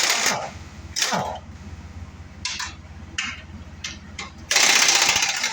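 An impact wrench hammering on a fastener in bursts: a short one right at the start, another about a second in, and a longer one near the end. Each burst ends in a falling whine as the motor spins down. A few light metal clicks come in between.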